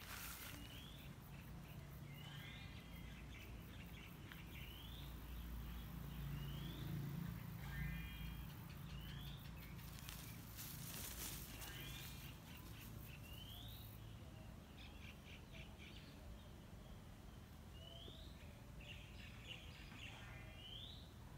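Birds calling: a short rising chirp repeated every second or two, with a quicker stuttering call now and then, over a low outdoor rumble.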